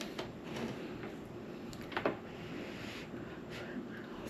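Faint room noise with a few soft, short clicks, the clearest about two seconds in.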